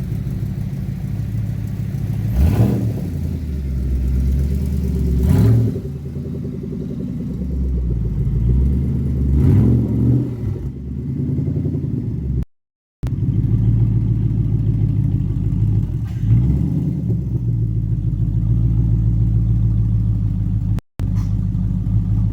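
2012 Ford Mustang Boss 302's 5.0-litre V8 running through SLP Loudmouth axle-back mufflers with the sidepipe resonators deleted, pulling on the road. The exhaust note rises and surges a few times, and the sound cuts out briefly twice.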